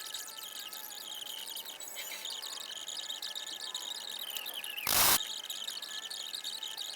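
Steady high-pitched insect chirping, with a brief loud burst of hiss-like noise about five seconds in.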